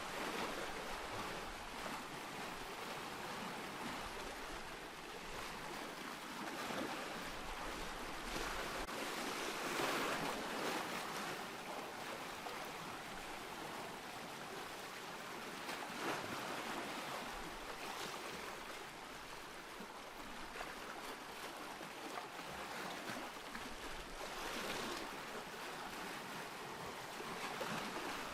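Ocean surf: waves breaking and washing in as a continuous hiss that swells and eases, with stronger surges about a third of the way in, just past the halfway point and near the end.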